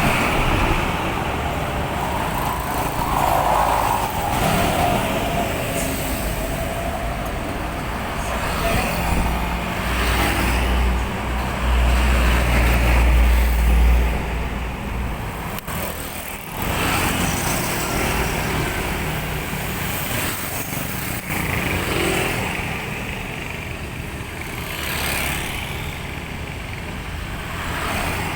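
Road traffic noise: vehicle engines running steadily, with a heavier low rumble about ten to fourteen seconds in and a brief dip a couple of seconds later.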